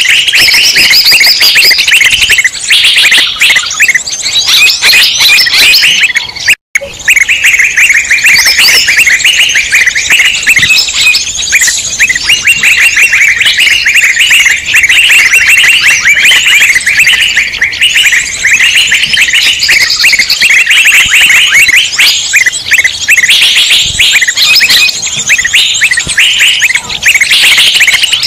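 A dense, loud chorus of many small songbirds chirping and twittering at once, with no pause, played as a bird-lure recording to attract wild birds. The sound cuts out for an instant about six and a half seconds in.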